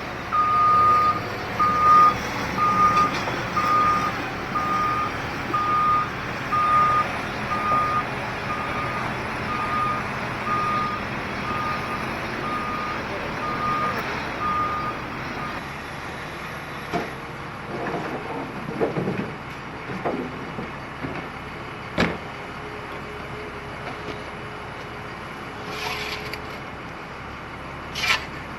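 Heavy equipment backup alarm beeping steadily, about one and a half beeps a second, over a diesel engine running. The beeping stops about halfway through, leaving the engine with scattered knocks and creaks and one sharp crack about 22 seconds in.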